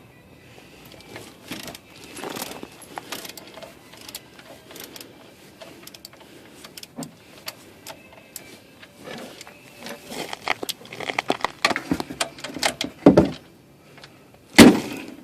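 Light metallic clinking and rattling of tools and parts being handled under a car during an oil change, busiest about ten to thirteen seconds in, with one sharp knock near the end.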